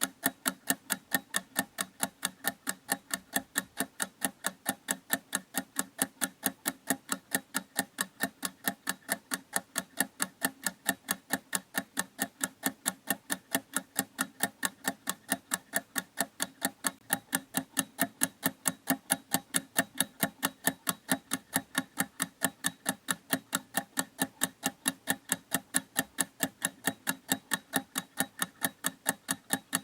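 Clock ticking steadily and evenly, about three sharp ticks a second, each with a short low ring.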